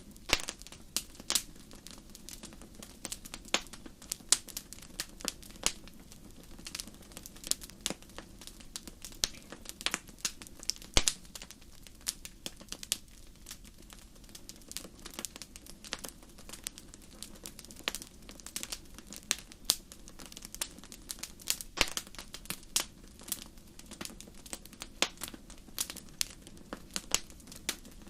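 Wood campfire crackling: irregular sharp pops and snaps, a few a second, over a faint steady low rush of the flames, with the sharpest pop about eleven seconds in.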